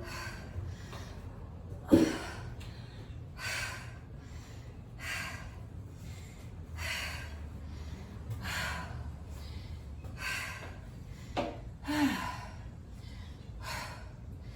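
A woman breathing hard and fast from intense exercise, a loud breath about every second and a half. A few short sharp thumps come through, the loudest about two seconds in.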